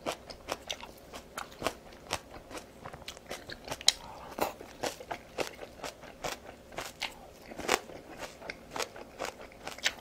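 Close-miked chewing: a steady run of short, crisp crunches at irregular spacing, a few a second, as pieces of green onion kimchi are bitten and chewed.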